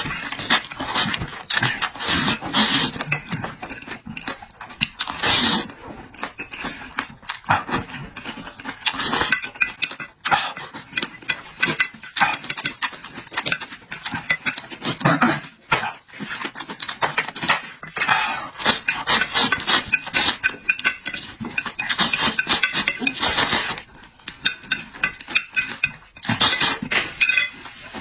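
Close-up eating sounds: wet chewing, lip smacks and slurps of food, coming in quick uneven runs with short pauses.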